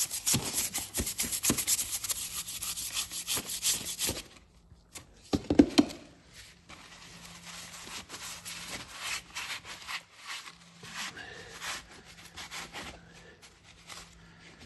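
A cheap hand brush scrubbing grime off an engine, rapid back-and-forth strokes that stop about four seconds in. A sharp knock follows a second later, then lighter, slower scrubbing.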